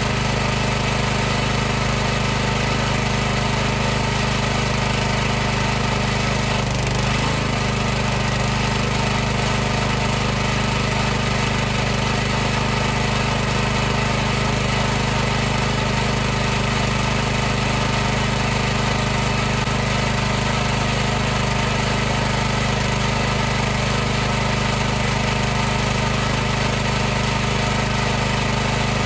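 High-pressure washer's pump and motor running steadily, a continuous mechanical hum with an even hiss over it.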